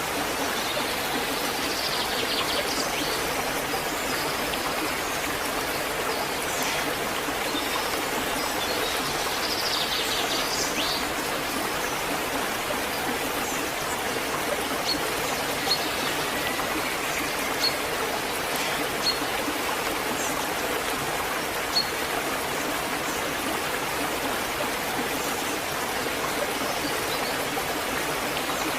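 Waterfall rushing steadily, with a few faint bird chirps and occasional sharp ticks over the water.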